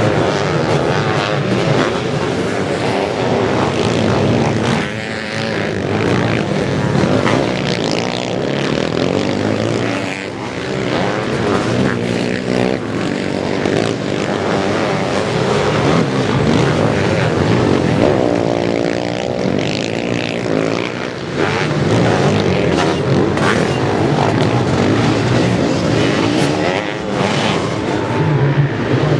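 Sidecar motocross outfits racing: several motorcycle engines running hard, their pitch rising and falling as they rev through the course, with no break in the noise.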